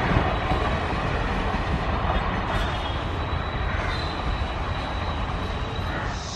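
Passenger train coaches rolling away along the track: a steady rumble of wheels on rails that slowly fades as the last coach recedes.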